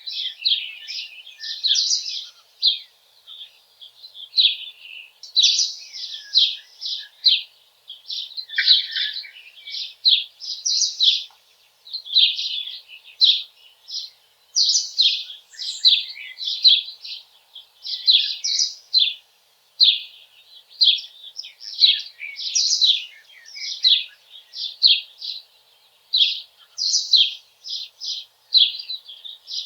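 Small songbirds singing steadily in a forest: quick runs of short, high chirping notes in phrases about a second long, one after another with brief pauses.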